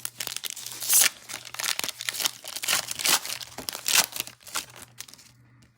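A trading-card pack wrapper crinkling and tearing as a pack of football cards is opened and handled: a dense run of irregular crackles that dies away near the end.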